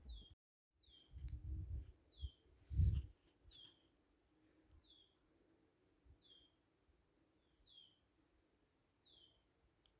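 A songbird repeating a two-note whistle about once a second: a short level high note, then a down-slurred note. Low rumbling thumps come in the first three seconds, the loudest about three seconds in.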